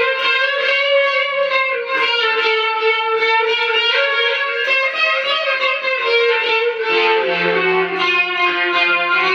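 Electric guitar played clean through an ART DST 8080 powered guitar processor, whose clean setting uses a tube preamp: a continuous stream of picked notes and chords ringing into one another.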